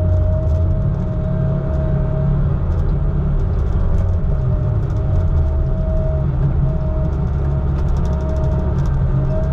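Heavy logging equipment's engine running steadily with a deep low rumble, and a thin higher whine that cuts out and comes back several times.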